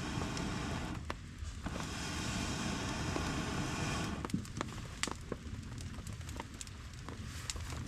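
Campfire crackling and popping in the rain: a dense hiss for the first four seconds, then scattered sharp pops and clicks over a quieter background.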